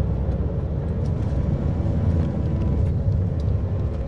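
Steady low rumble of a car driving, engine and road noise running evenly.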